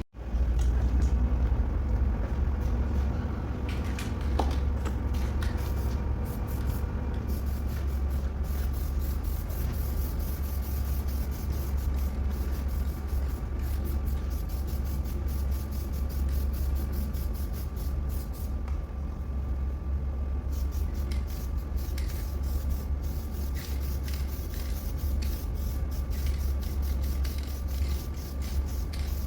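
Air spray gun spraying silver paint, its hiss starting and stopping with each pass, over a steady low hum.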